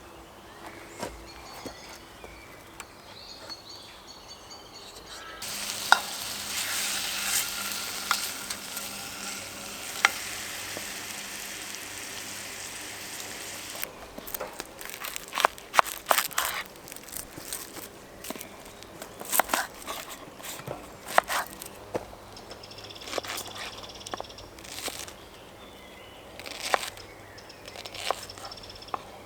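Chicken frying in a pan, a steady sizzle that starts about five seconds in and goes on for about eight seconds. After it comes a long run of scattered sharp clicks and knocks.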